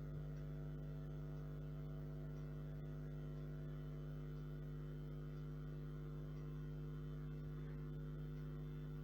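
Steady electrical hum: several fixed pitches held without change, with no other sound over it.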